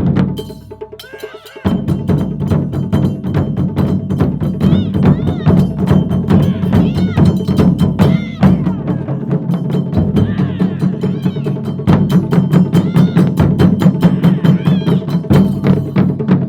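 Japanese taiko drum ensemble playing a fast, dense rhythm, with sharp woody clicks among the drum strikes. The full ensemble comes in loud about two seconds in after a quieter passage.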